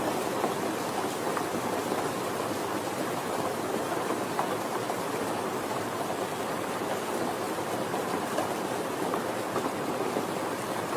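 Steady rainfall, an even hiss with scattered drops pattering on a surface.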